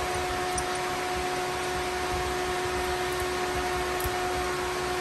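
Electric fan running steadily, a constant whir with a steady whining hum.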